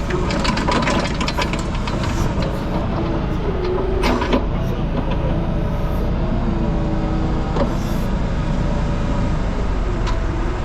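Heavy diesel machine working under load to lift a trailer, its engine running steadily with metal clanks and rattles. A sharp clank comes about four seconds in.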